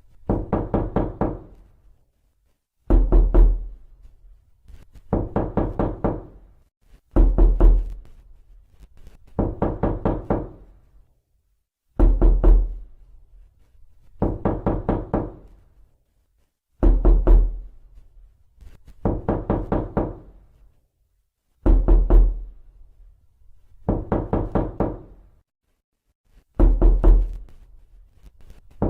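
Knocking on a door in repeated bursts of five or six quick knocks, about every two and a half seconds. Heavier, booming bursts alternate with lighter ones, and each knock rings briefly in the door.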